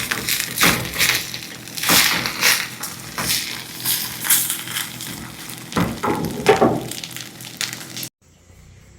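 Spatula scraping and stirring in a frying pan of eggs and hot dogs, in irregular scraping strokes about one or two a second. It cuts off suddenly about eight seconds in.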